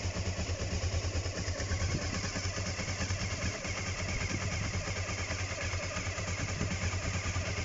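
1999 Honda CB500's parallel-twin engine idling steadily after a cold start, with an even, rapid exhaust pulse.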